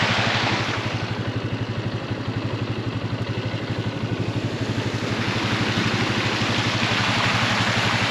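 A vehicle's engine running with a steady low throb, under a rushing noise that eases about a second in and picks up again about five seconds in.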